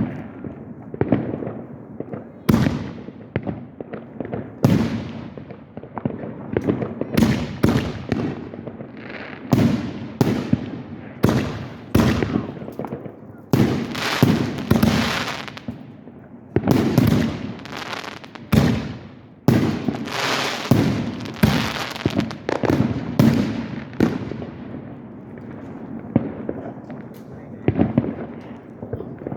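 Fireworks going off in quick succession: repeated sharp bangs, many trailing off in a crackling hiss, coming thickest in the middle stretch.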